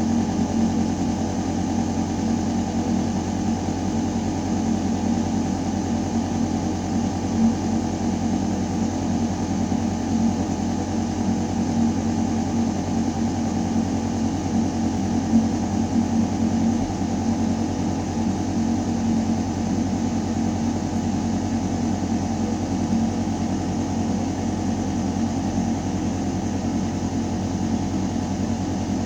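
Building ventilation system running: air moving through a metal duct shaft with a steady, low mechanical hum, a few steady tones over an even rush of air.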